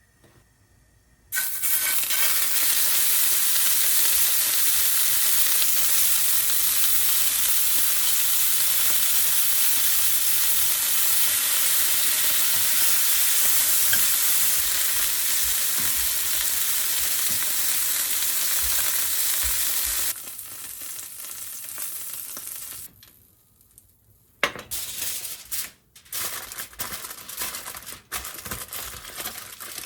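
Food frying in a hot pan: a loud, steady sizzle that starts suddenly about a second in. After about twenty seconds it drops quieter, then comes back broken and uneven near the end.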